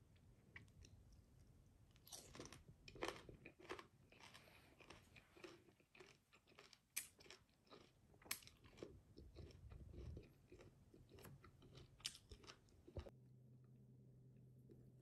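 A person biting and chewing crisp green mango slices close to the mic, with a run of sharp crunches starting about two seconds in. The crunching cuts off abruptly near the end, leaving a low steady hum.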